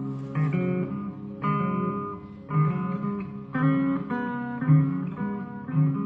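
Guitar playing a picked riff, with a new note or chord struck about once a second.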